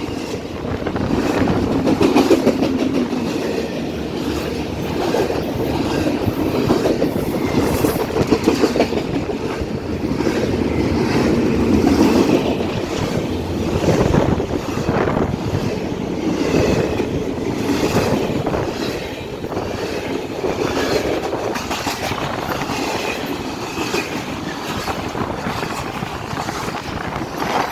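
Freight train cars rolling past at speed: a steady rumble with a continual clickety-clack of wheels striking rail joints.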